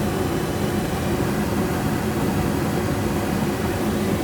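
Rheem Corsaire gas furnace running with its burners lit, a steady rushing hum, after a newly fitted hot surface ignitor has fired it.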